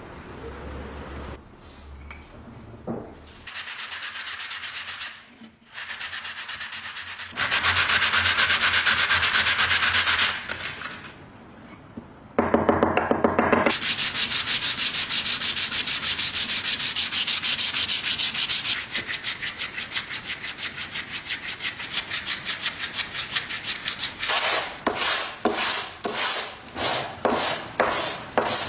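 Scraping noise in long stretches with short pauses, then quick back-and-forth strokes, about two a second, near the end.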